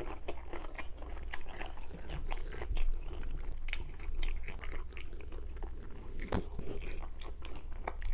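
A person chewing a mouthful of sauce-dipped fried chicken, a steady run of many small irregular mouth clicks and crackles.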